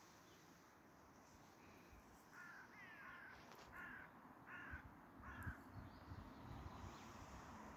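Faint bird calls: five short, falling calls about half a second apart.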